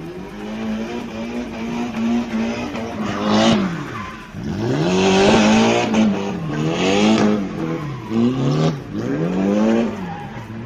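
Car engine revving hard, its pitch dropping and climbing several times, with repeated bursts of tyre squeal about a third of the way in and again in the middle.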